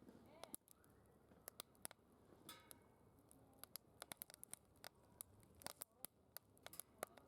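Faint crackling of wood burning in a secondary-combustion fire pit, with frequent irregular sharp pops and snaps.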